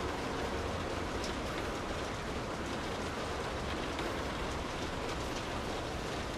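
Steady rain falling on a street, a constant even hiss with a few faint drop ticks.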